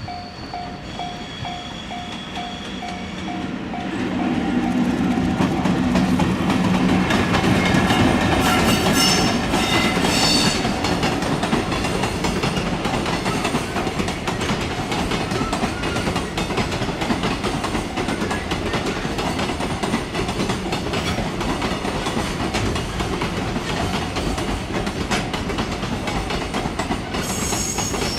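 Level crossing warning bell ringing in an even, repeating pulse, then drowned out about four seconds in as a train passes close by. The passing train keeps up a loud, sustained rush of wheels on rails with clickety-clack for over twenty seconds, and a brief high-pitched squeal or horn comes through about nine to ten seconds in.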